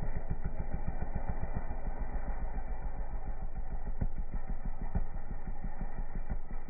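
125cc dirt bike engine running steadily, with a quick even train of firing pulses.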